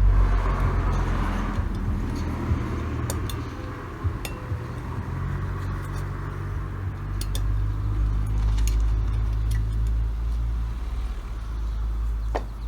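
A steady low hum with a few light metallic clicks and ticks, from small carburetor parts and tools being handled during disassembly.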